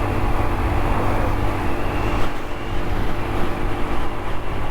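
Honda CT125's air-cooled single-cylinder engine running steadily under way, with wind and road noise rushing over the microphone.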